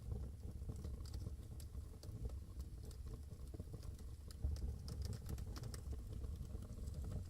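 Wood fire burning in a fireplace: a low steady flame noise with many small, sharp crackles and pops, thickest in the middle.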